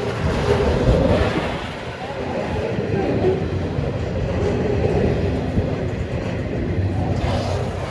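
Train running along the track at the station, a steady rumble of wheels on rails.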